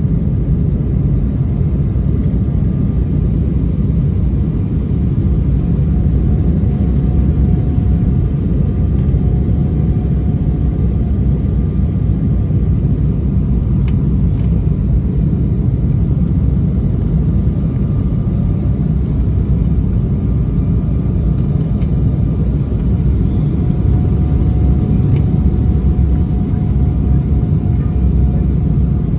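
Steady low rumble of an Embraer E190 airliner cabin on approach, made by airflow and the GE CF34-10E turbofan engines, with a faint steady whine over it.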